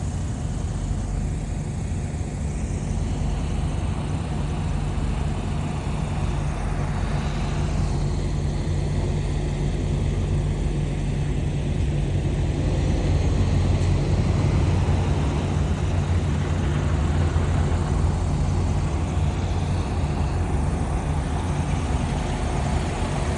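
Steady drone of a semi-truck's diesel engine and road noise while driving, growing slightly louder over the stretch.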